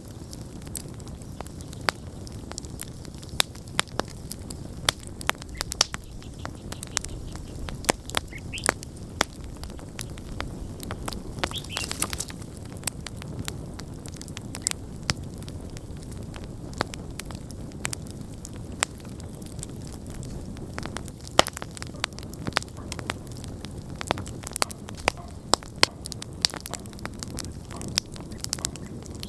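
Wood campfire burning, a steady low rumble of flames with frequent sharp, irregular crackles and pops of burning logs, and a short hiss about twelve seconds in.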